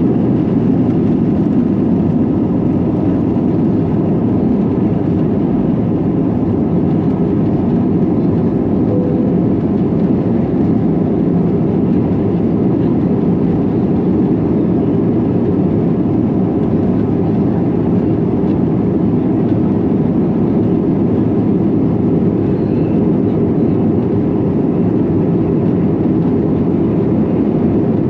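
Steady drone of jet engine and airflow noise heard inside the cabin of an Airbus A321 airliner, even and unchanging throughout.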